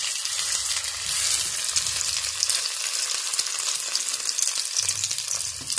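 Grated potato pancake sizzling in hot oil in a frying pan, a steady hiss full of fine crackles, just after being flipped to brown its second side.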